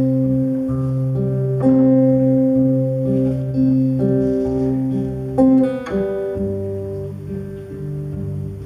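Acoustic guitar playing a slow introduction, strummed chords left to ring, with the chord and bass note changing about six seconds in.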